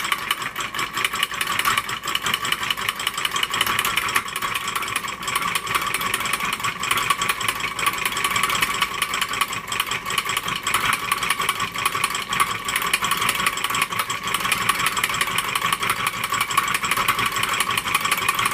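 Reichelt twin-cylinder hot air engine running steadily, a fast, even mechanical clatter of clicks; its timing has been set right and it runs fine.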